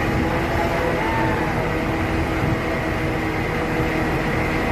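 Steady running of heavy machinery with a constant low hum, typical of a locomotive workshop during a lift.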